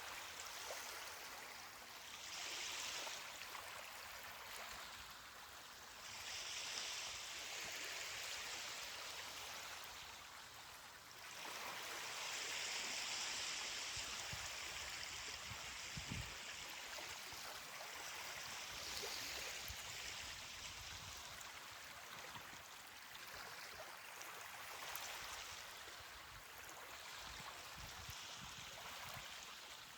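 Ocean waves washing onto a beach: a steady hiss of surf that swells and eases every few seconds.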